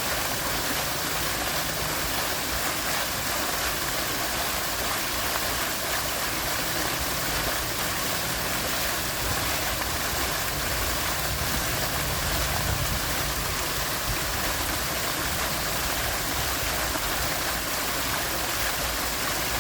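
Water cascading down a large pumped, man-made waterfall over boulders: a steady, unbroken rush.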